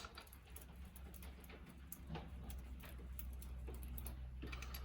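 Faint, scattered light clicks and taps of small bolts being handled and started by hand into an engine's clutch side cover, over a low steady hum.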